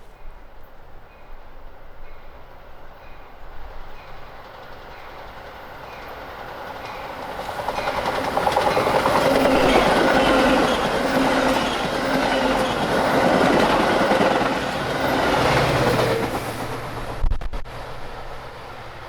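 Metra commuter train passing at speed on the main line, its wheels clattering rhythmically over the rails; it builds over several seconds, is loudest through the middle, then drops away near the end. A short thump follows just after.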